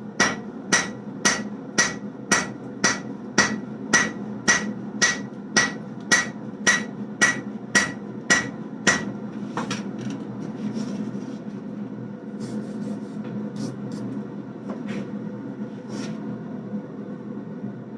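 Hand hammer striking a hot layered steel billet of 1095 and 15N20 during forge welding and drawing out. The blows are steady and even, about two a second, and stop about halfway through. A steady low rush continues underneath.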